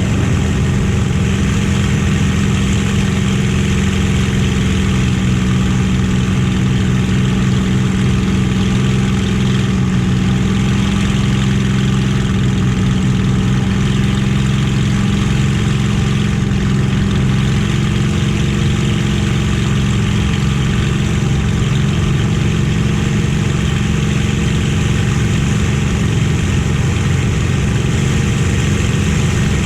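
A warbird's Merlin V12 piston aero engine running at steady power: one constant, unchanging drone with no rise or fall in pitch.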